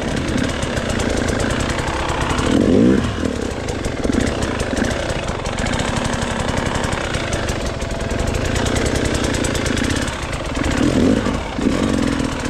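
Dirt bike engine running and revving up in bursts, twice climbing sharply: about three seconds in and again near the end. The rider is trying to get a run at a slick rock ledge and can't get going.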